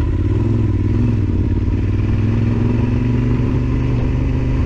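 Yamaha Super Ténéré XT1200Z's parallel-twin engine running at low, steady revs as the bike picks its way over rough ground.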